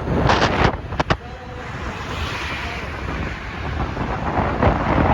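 Wind rushing and buffeting against the microphone on a moving motorbike: a loud, steady rumble and hiss, with a few sharp knocks in the first second.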